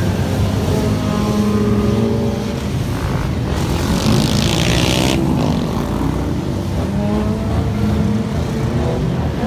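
A vehicle engine running steady and loud, its pitch shifting slightly partway through, with a burst of hiss for about a second and a half in the middle.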